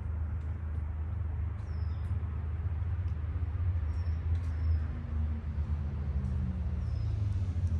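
Motorcycle running with a steady low rumble, its pitch creeping up slightly midway, while a few short high chirps sound above it.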